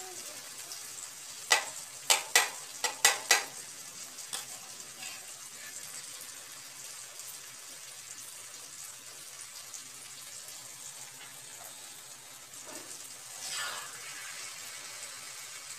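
Okra, tomatoes and green chillies sizzling in oil on a wide flat pan, with a steady hiss throughout. A spatula clacks against the pan about six times in quick succession between one and a half and three and a half seconds in, and scrapes through the vegetables near the end.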